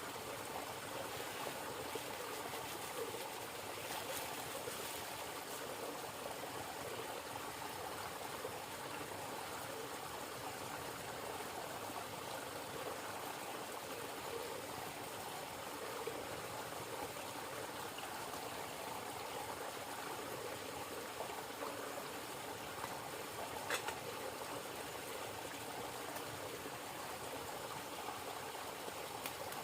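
River water flowing steadily. One short click about three-quarters of the way in.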